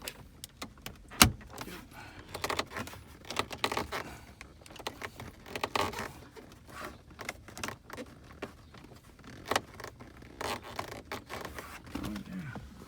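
Plastic center dash trim panel being pushed and worked into place, with irregular clicks, rattles and rubbing of plastic on plastic, and one sharp loud click about a second in as it seats.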